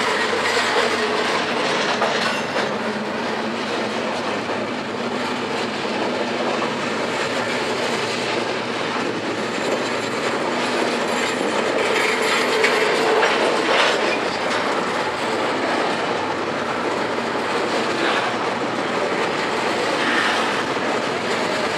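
Double-stack container train's well cars rolling steadily past close by: steel wheels running on the rails, with a brief wheel squeal now and then.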